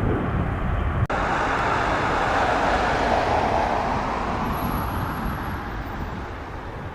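Jet airliner engines passing, a loud steady rush that swells about three seconds in and then slowly fades away. A brief dropout about a second in breaks it, as at an edit.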